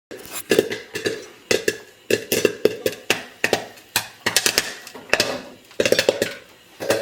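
Popcorn kernels popping in hot coconut oil in a lidded pot on the stove: a quick, irregular run of sharp pops, several a second.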